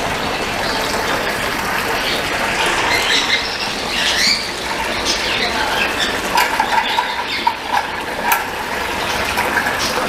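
Birds chirping and squawking over a steady background hiss.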